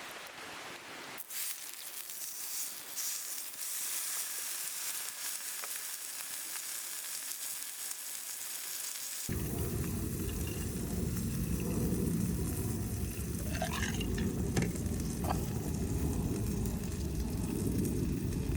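Fatty meat sizzling as it grills over a campfire, starting about a second in. About halfway through the sound cuts abruptly to a low, steady rushing noise with a few brief high squeaks.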